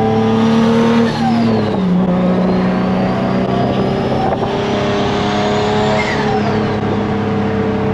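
Turbocharged Nissan 350Z's VQ35 V6 pulling hard through a loud exhaust, with a high turbo spool whistle that climbs with the revs. The whistle and engine note drop off sharply about a second in and again near six seconds.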